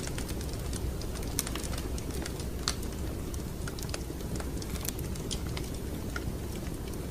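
Wood fire crackling in a fireplace: irregular sharp pops and snaps, a few of them louder, over a steady low rumble of the flames.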